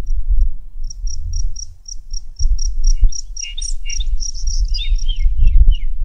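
Small birds chirping: a rapid series of short, high notes, about five a second, with lower, slurred chirps joining in from about three seconds in. A loud, uneven low rumble runs underneath.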